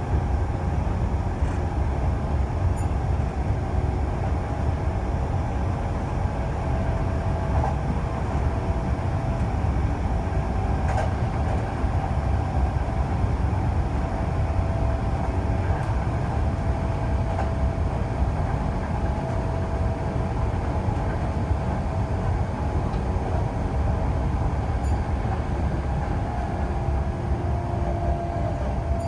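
A Kintetsu local electric train running steadily at speed, heard from inside the passenger car: a continuous low rumble of wheels on rails and running gear, with faint thin humming tones above it.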